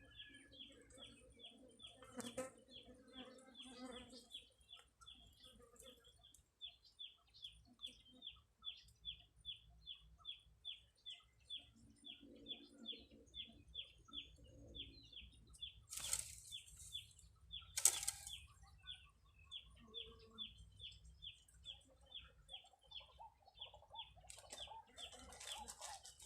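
Faint, regular high chirps repeating about two to three times a second from a small calling animal (bird or insect), with a low hum at times and two sharp clicks past the middle.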